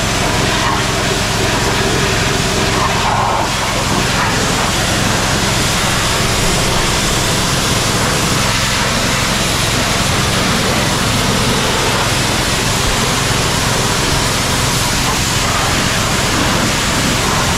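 Pressure washer running steadily, its engine droning under the constant hiss of the water jet as it cleans mud off a tractor.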